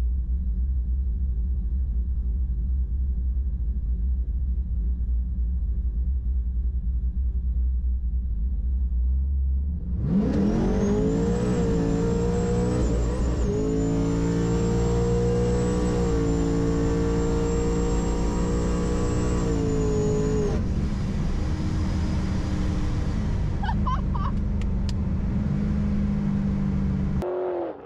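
Supercharged Pontiac G8 GT's V8, heard from inside the cabin: a low idle rumble while staged, then about ten seconds in it launches to full throttle with a high supercharger whine over the engine. The revs climb, dip once at a shift, and hold high for about seven seconds before the throttle lifts and the engine falls back to a lower drone.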